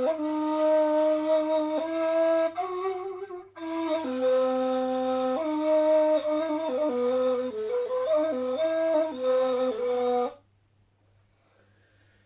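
Solo flute improvising a taksim in the hicaz makam: long breathy held notes and ornamented, stepwise descending phrases, with a short breath about three seconds in. The playing stops about ten seconds in.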